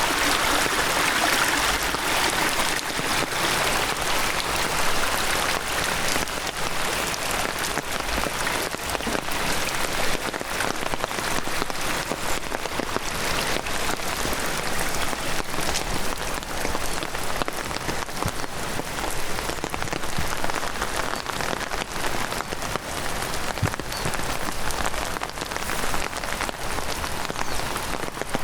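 Heavy downpour: a dense, steady hiss of raindrops striking surfaces. A rushing stream is heard under it in the first couple of seconds and fades out.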